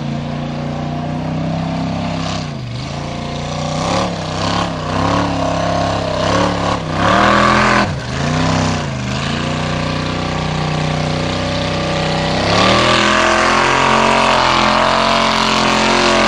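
Engine of a Jeep-style formula offroad car revving hard on a steep dirt climb. The revs blip up and down several times, then rise sharply about twelve seconds in and are held high to the end.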